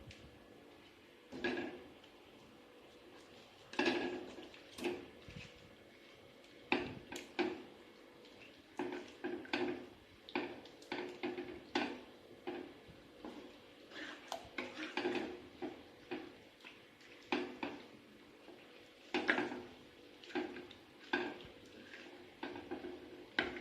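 Metal utensils clinking and scraping against plates and bowls in short, irregular knocks, starting about a second and a half in.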